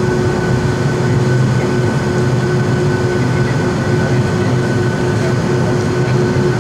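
Boeing 757's jet engines running steadily: a low hum with two steady whines over it, with no rise in power.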